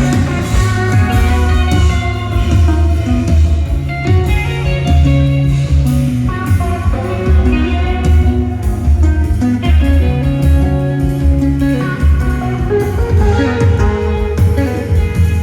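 Live rock band playing an instrumental passage: an electric guitar solo over a steady, loud bass line.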